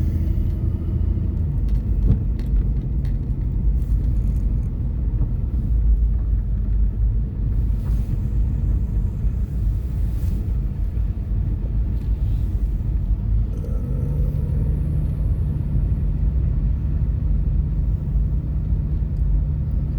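Car driving, heard from inside the cabin: a steady low rumble of engine and road noise, with an engine hum coming up a little over halfway through.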